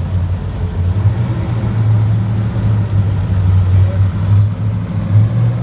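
A car engine idling, a steady low-pitched sound that swells and dips slightly in level.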